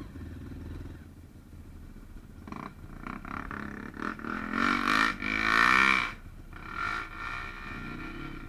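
Small trail motorcycle's engine running low, then revved hard twice about halfway through, its pitch rising and falling, before easing back to a lower steady run.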